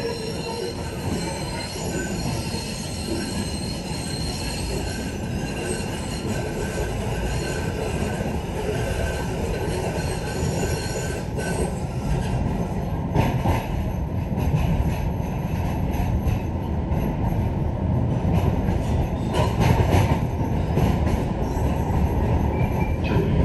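MBTA Green Line light-rail train running through the subway tunnel, heard from inside the car. Its wheels squeal in steady high tones through the first half. About halfway through the squeal fades, and a heavier rumble with repeated sharp clacks over the rails takes over.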